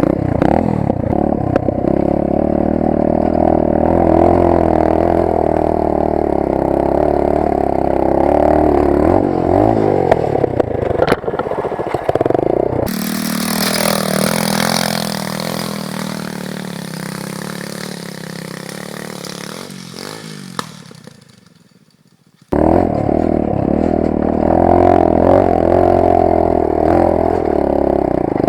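Single-cylinder four-stroke 125cc pit bike engine running under load, its pitch shifting with the throttle. About halfway it gives way abruptly to a hissier sound that fades away over several seconds, then cuts off sharply. The engine sound returns near the end.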